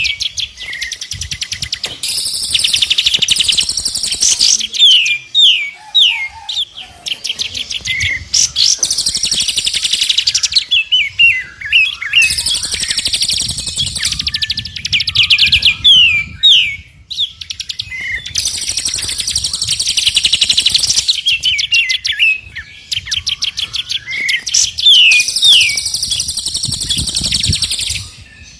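Recorded songbird song used as a tutoring track for cage birds. It runs as phrases of rapid high trills mixed with short downward-sweeping whistles, repeated again and again with brief pauses between them.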